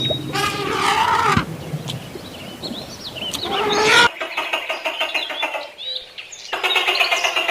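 Bird calls: a single pitched call lasting about a second near the start, then, after an abrupt change about four seconds in, dense rapid chirping from many birds.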